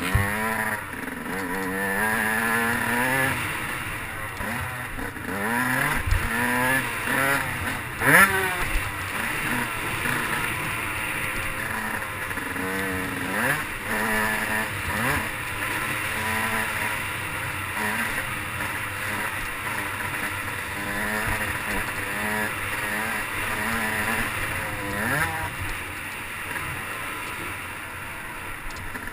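Motocross dirt bike engine revving hard and falling off again and again, its pitch climbing and dropping as the rider works through the throttle and gears. Sharp thumps about six and eight seconds in, the second the loudest moment.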